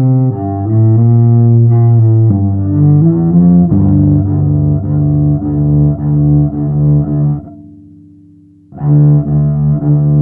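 Hand-made double bass playing music. Sustained bowed notes change pitch, then settle into a steady pulsing figure of about two notes a second. The figure drops away for about a second near the end and then comes back.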